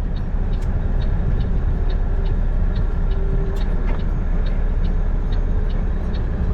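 Ford F-250 Super Duty 6.7 L diesel pickup driving, a steady low engine and road rumble, with a faint regular ticking about twice a second.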